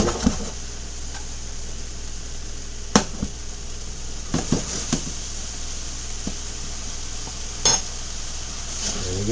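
Marinated sirloin tip steaks and sliced mushrooms and onions sizzling steadily in skillets, their marinade liquid still cooking off. A few sharp clinks of pan and utensil, the loudest about three seconds in and near the end.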